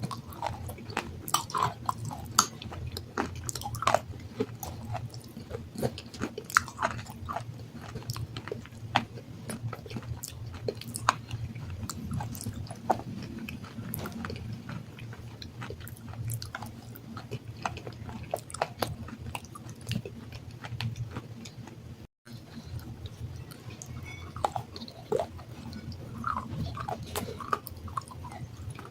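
Close-up chewing of water-soaked black sandstone: irregular sharp, gritty crunches as it is bitten and ground between the teeth. The sound cuts out briefly about two-thirds of the way through.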